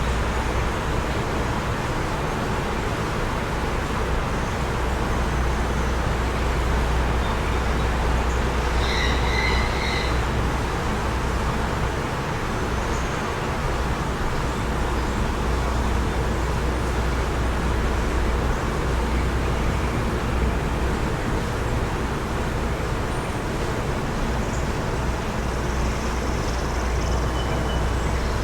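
Steady wind blowing and buffeting the microphone with a constant low rumble. A brief high tone sounds about nine seconds in, and a few faint high chirps come near the end.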